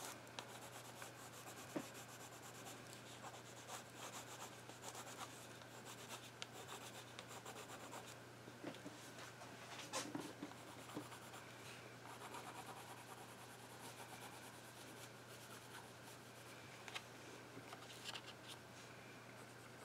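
Faint scratching of a Prismacolor colored pencil being stroked back and forth across a watercolor-painted page of a handmade journal, with a few light clicks here and there.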